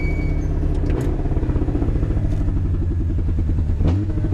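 Rally car engine heard from inside the cabin, running at low revs with an even pulsing beat. There is a sharp click about a second in, and a short rise in revs near the end.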